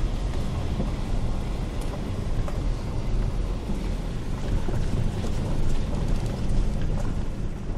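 Wind buffeting the microphone: a steady low rumble with scattered faint crackles.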